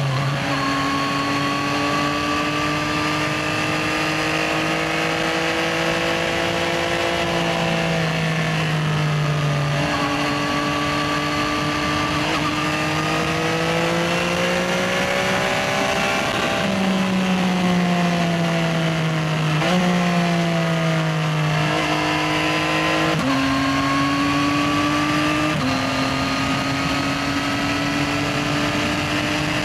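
Yamaha XSR900's 890 cc inline three-cylinder engine riding through traffic. The revs climb gently and then fall or step at each gear change, several times over, with road and wind noise underneath.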